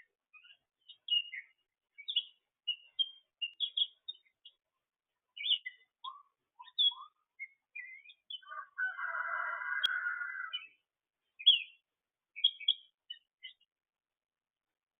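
Songbirds chirping: a string of short, separate chirps, with one longer, denser call of about two seconds around two-thirds of the way through.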